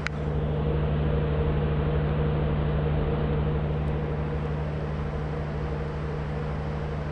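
A motor running steadily, a low even drone with a fast regular pulse.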